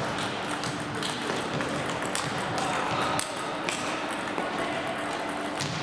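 Table tennis balls clicking irregularly off paddles and tables, several rallies going at once, over a steady hum in a large hall.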